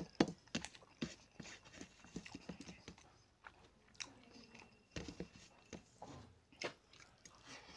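Close-up eating sounds: a mouthful of rice and fish curry being chewed with wet lip smacks, and fingers squishing and mixing rice in curry on a steel plate, as irregular short clicks and squelches.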